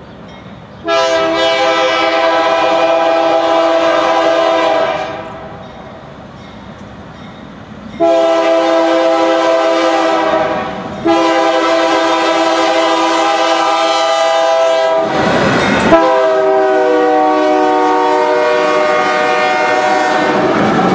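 Freight locomotive air horn sounding a chord in four long blasts, the first starting about a second in. During the last blast the horn's pitch drops as the locomotive passes, with wheel noise from the train underneath.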